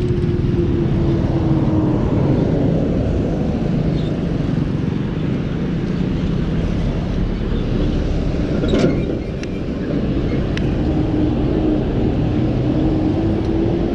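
Road traffic on a city street: a steady rumble of vehicles, with one vehicle's engine hum that slowly falls in pitch, fades, then comes back and rises. A single sharp knock about two-thirds of the way through.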